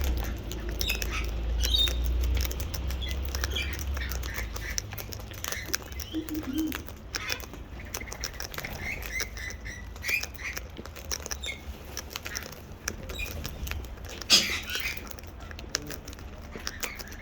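Parrots cracking and crunching seed, a dense run of sharp clicks, with scattered short chirps and squawks and one louder call about fourteen seconds in. A low rumble underlies the first few seconds.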